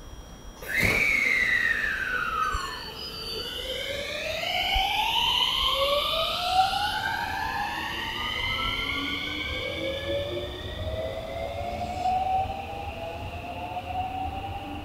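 An electric train pulling away, its traction motors whining in several tones that climb steadily in pitch as it gathers speed. The whine sets in suddenly about a second in with a tone that falls before the rising ones take over.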